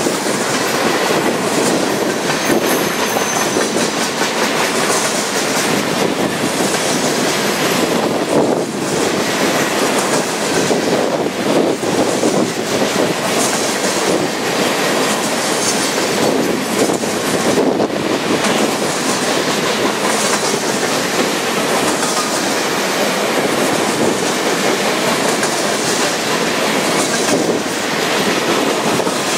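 A freight train's cars, centerbeam flatcars among them, rolling past at speed: a steady, loud noise of steel wheels on the rails, with repeated clicks as the trucks cross the rail joints.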